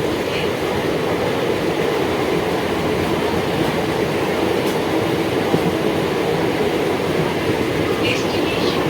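MEMU electric multiple-unit train running along the track: a steady, continuous rumble of wheels and coaches in motion.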